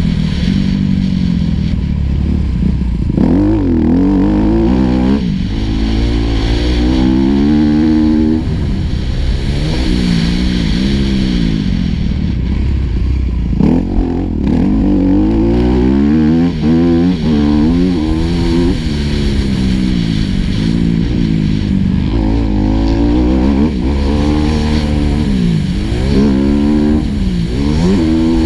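Four-stroke motocross bike engine at racing speed, revving hard and falling off again and again, its pitch climbing and dropping every couple of seconds as the throttle is worked around the track.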